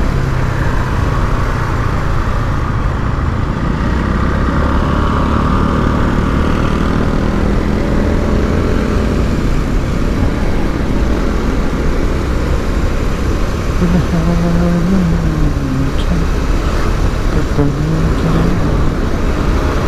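Motorcycle engine running steadily on the move, with road and wind noise and other traffic around it.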